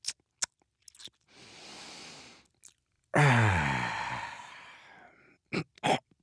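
A man's "dad noises": small mouth clicks and smacks, a long breathy exhale, then a loud drawn-out groaning sigh that falls in pitch, and two short grunts near the end.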